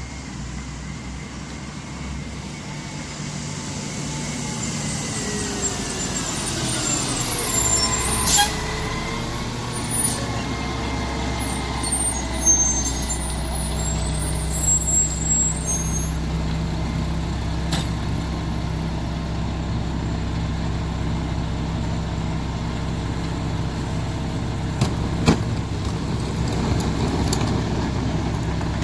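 Mack MR rear-loader garbage truck slowing: a high whine falls in pitch over several seconds, then the engine idles steadily. Sharp knocks and clanks come now and then, the loudest about eight seconds in.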